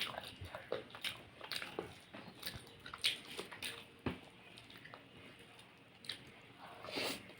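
Close-miked eating sounds: wet chewing and squelching of chicken curry with rice and roti, with irregular short clicks and smacks.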